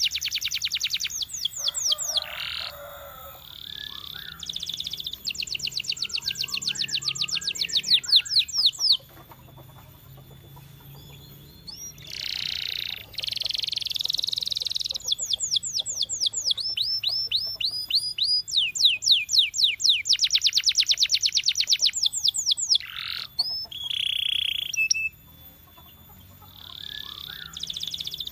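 Canary singing: fast trills of rapidly repeated high notes in several phrases, broken by pauses of two or three seconds.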